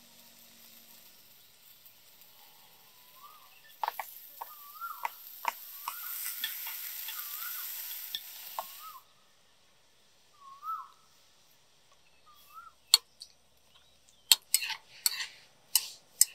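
Chopped chilli and garlic sizzling in oil in a deep non-stick pan, the sizzle growing louder then cutting off about nine seconds in. A metal spatula clacks and scrapes against the pan as minced meat is stirred, with a run of sharp knocks near the end.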